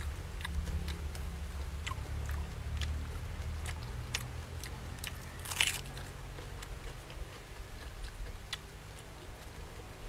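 Close-up eating sounds of a person chewing a mouthful of grilled fish and rice: scattered small wet clicks and smacks, with one louder crunch a little past halfway through.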